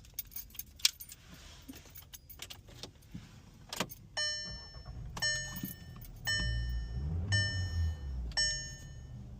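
A car's warning chime dings about once a second, six times, starting about four seconds in. Before it come scattered light clicks and rattles, like keys or door handling, and a low rumble rises under the later chimes.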